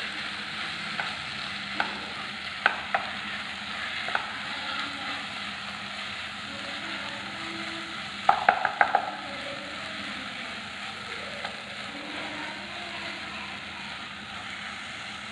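Onion-tomato masala with freshly added spice powders sizzling as it is sautéed in a non-stick pan, stirred with a spatula. The frying hiss is steady, broken by scattered clicks of the spatula against the pan and a quick run of taps about eight seconds in.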